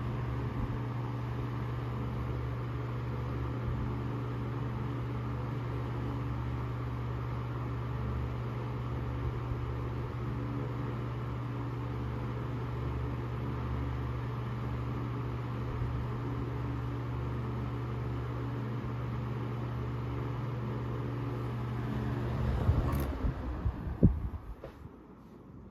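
Vintage Emerson Electric 16-inch table fan running steadily with a low electrical hum. Near the end come a few knocks and a sharp click, after which the sound drops away.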